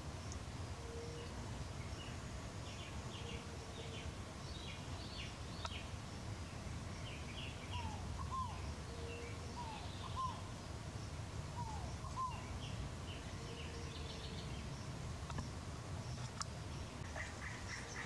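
Wild birds calling: short low hoots every few seconds, three pairs of quick hooked notes in the middle, and many high chirps from small birds, over a steady low rumble.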